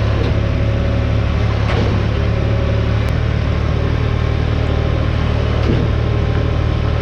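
Track loader's six-litre diesel engine running steadily under load while lifting a backhoe by its boom, with a few faint metal knocks.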